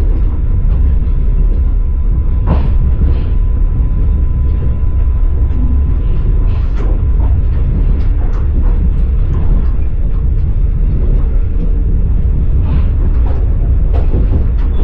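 Passenger train running on the rails, heard from inside the carriage: a steady heavy rumble with a few sharp clacks of the wheels over the track.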